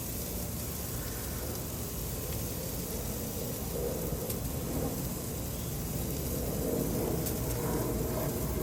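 Steady sizzling hiss of grilled steak skewers, over a low rumble.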